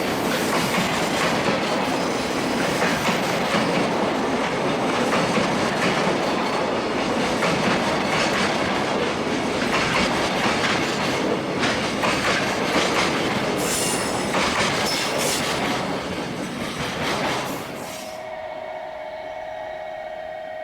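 Long freight train of container wagons rolling past at speed, wheels clattering over the rail joints with some squeal, behind a JR Freight EH500 electric locomotive. It fades about 16 seconds in and ends abruptly near 18 seconds as the last wagons go by.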